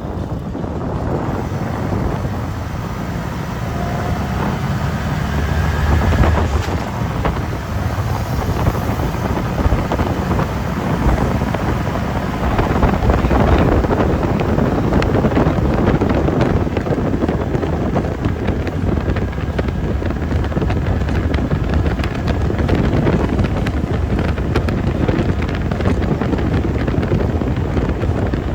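Wind buffeting the microphone: a loud, uneven rumble that gusts up and down.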